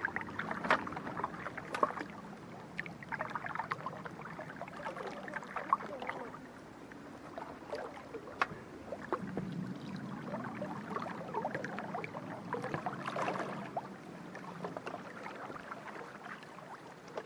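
Water splashing and gurgling, with irregular small knocks and clicks.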